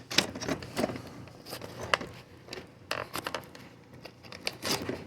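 Irregular knocks, clicks and scrapes of the camera being handled and propped back up, close to the microphone.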